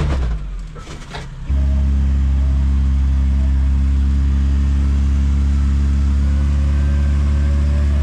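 A four-wheel-drive's engine running at steady low revs as the vehicle crawls a rock step. For about the first second and a half the sound drops away, with a few clicks, then comes back abruptly and holds one unchanging note.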